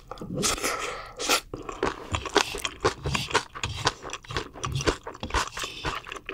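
Close-miked chewing of crunchy food, an irregular run of sharp crunches a few times a second.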